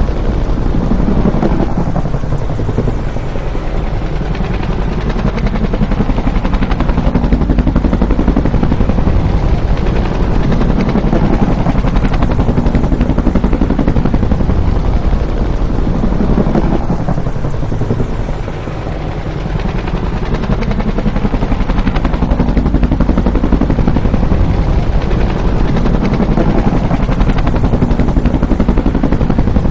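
Bell UH-1 "Huey" helicopter running close by, its rotor blades beating in a fast, steady rhythm over engine noise. The sound eases off a little about two-thirds of the way through, then comes back up.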